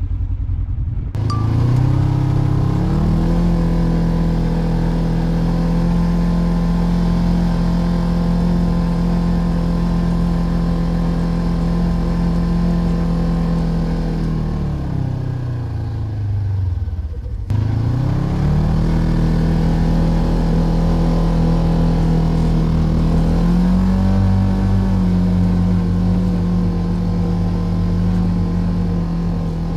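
Polaris RZR Trail side-by-side's engine running at a steady pitch under load. About halfway through, it winds down, then quickly climbs back up, with a small step up in pitch near the end.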